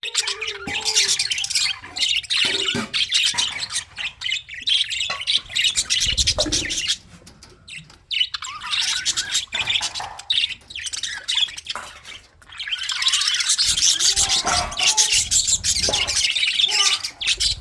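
A colony of budgerigars chirping and chattering all together, a dense high-pitched warble with squawks mixed in, easing off briefly twice.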